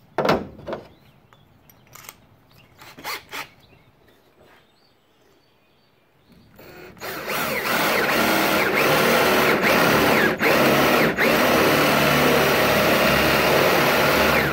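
A few knocks and handling sounds, then a power drill starts about six seconds in, spins up and runs steadily while boring a one-inch hole through a scrap of quarter-inch luan plywood. Its sound dips briefly a few times.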